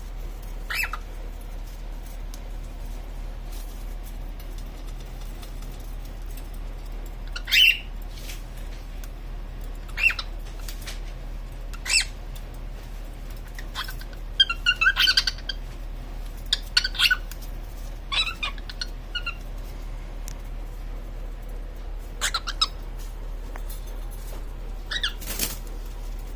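Female cockatiel giving short chirping calls in scattered bursts a few seconds apart, with a quick run of several calls about halfway through; the calls are her mating call. A steady low hum sits underneath.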